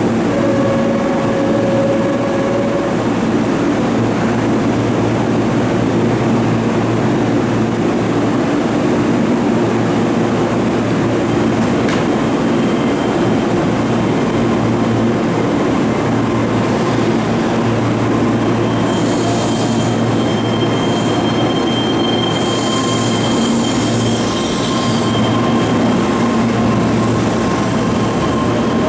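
Keihan electric train running along the platform with a steady rumble of wheels and motors, and high-pitched wheel squeal from a little past the middle.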